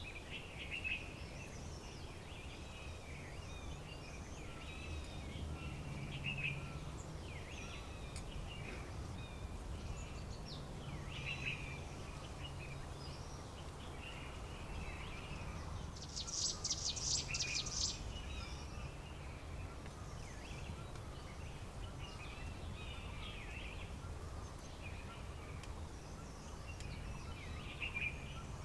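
Several wild birds chirping and calling throughout, with a louder, rapid rattling call about halfway through, over a steady low rumble.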